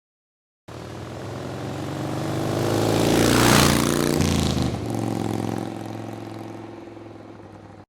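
A motor vehicle passing by. Its engine sound swells to a peak about three and a half seconds in, drops in pitch as it goes past, then fades away.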